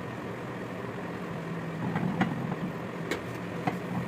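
A steady low mechanical hum with three sharp knocks or clicks, the first about two seconds in and the loudest.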